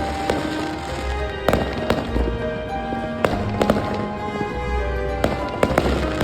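Fireworks going off in sharp bangs, a few in quick succession around the middle and again near the end, over music with held notes and a low bass.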